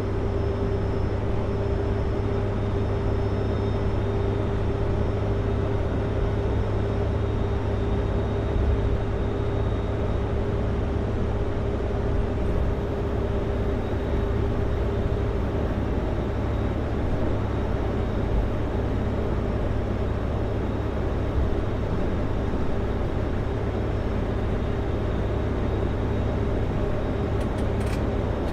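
Kenworth W900L semi truck's diesel engine running steadily under way with road noise, heard from inside the cab. A steady whine in the mix fades out a little past halfway.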